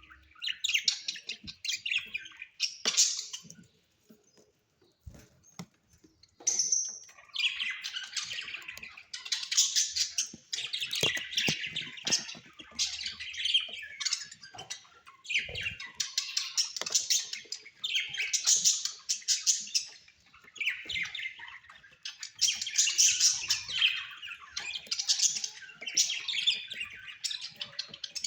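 Australian pet parrots chattering and squawking in fast, high-pitched bouts, with a brief lull about four seconds in before the chatter resumes.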